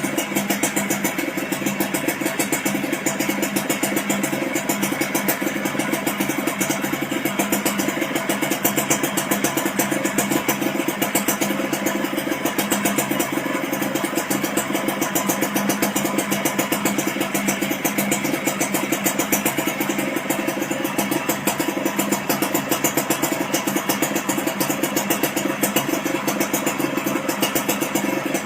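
Suzuki Crystal RC110 two-stroke single idling steadily through a stainless expansion-chamber tune pipe, a fast, even exhaust pulse.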